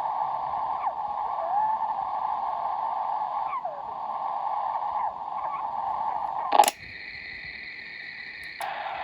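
Receiver audio from a Kenwood TS-120 HF transceiver fitted with a crystal IF filter: band hiss with short whistles gliding in pitch. About two-thirds through there is a sharp click, after which the hiss turns quieter and thinner for about two seconds before the fuller hiss comes back.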